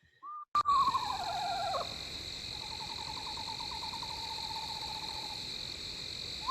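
Eastern screech-owl calls: a quavering whinny that falls in pitch, then a long, even trill held on one pitch, and a second falling whinny beginning at the end. A steady high hiss runs underneath.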